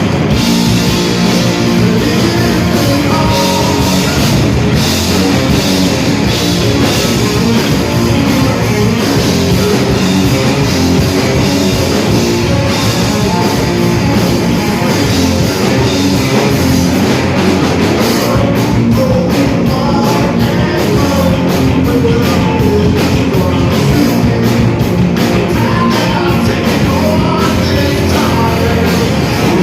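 A rock band playing loud and steady, with a drum kit keeping a regular beat.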